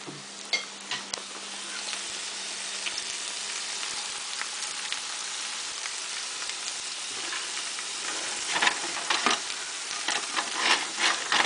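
Food frying in hot oil in several pans at once: French fries, white fish fillets and hush puppies sizzling with a steady crackle. The crackling grows louder, with a run of sharp pops and clicks, in the last few seconds.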